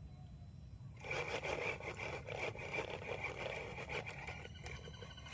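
Toy RC car's small electric motor starts about a second in with a steady high whine, its wheels and body rattling and crunching over rough ground, then fades out near the end.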